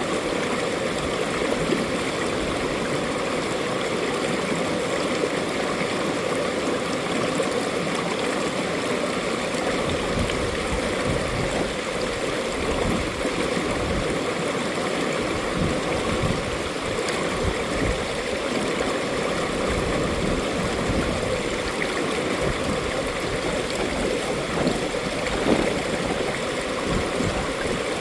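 Mountain stream flowing over rocks, a steady rushing and gurgling of water with small splashes.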